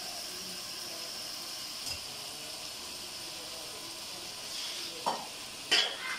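Beef and spice masala sizzling steadily in an open pressure cooker on the stove, with a small click about two seconds in and two sharper knocks against the pot near the end as cut potato pieces go in.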